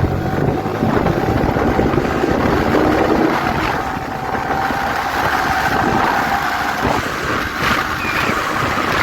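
Motorcycle running with wind rushing over the microphone. A steady hum underneath shifts to a higher pitch about seven seconds in.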